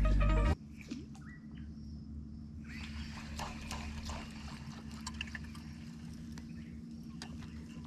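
Background music cuts off half a second in, giving way to water lapping with scattered clicks and knocks over a steady low hum.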